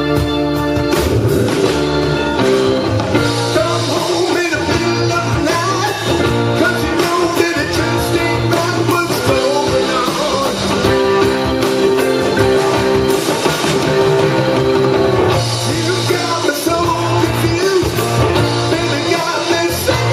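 Blues band playing a song live.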